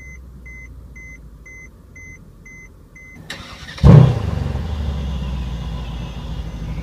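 A warning chime in the car's cabin beeps about twice a second, seven times. Then the E63 AMG S's 5.5-litre biturbo V8 starts with a loud burst just under four seconds in and settles into a steady idle through the quad exhaust.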